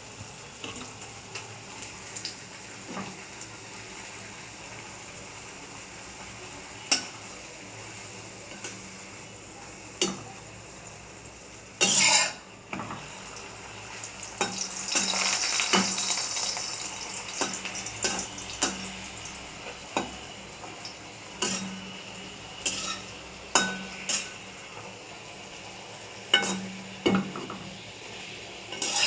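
Food frying in hot oil in a pan: a steady sizzle that swells for a few seconds around the middle, with a metal utensil knocking and scraping against the pan in scattered sharp strikes.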